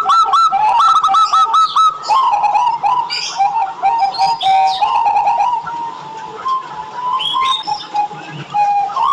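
Zebra doves (perkutut) cooing: for about the first two seconds a fast run of short repeated notes, then slower, lower coos, with a few higher bird chirps mixed in.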